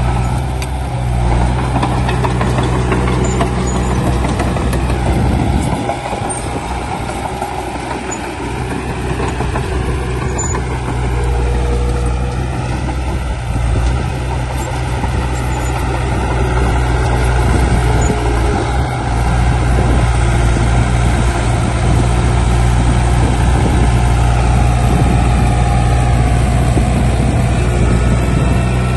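Heavy diesel earthmoving machinery running steadily, easing off a little about six seconds in and building up again in the second half.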